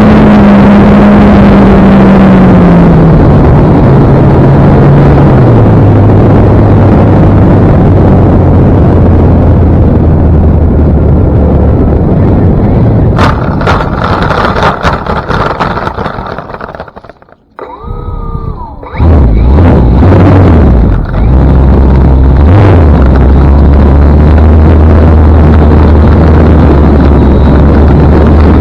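Electric motor and propeller of a Carbon Cub S2 RC airplane running, heard through an action camera's microphone with heavy wind rush. The drone sinks in pitch over the first several seconds as the throttle comes back. About two thirds of the way through, the sound fades to nearly quiet for a moment, then comes back loud with a steady low drone and wind buffeting.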